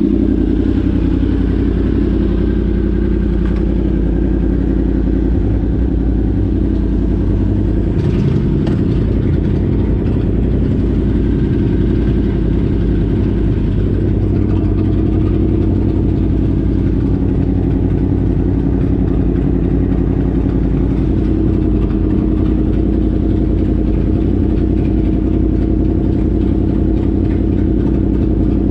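Vehicle engine running at a steady speed, a loud even drone with no big revs or gear changes.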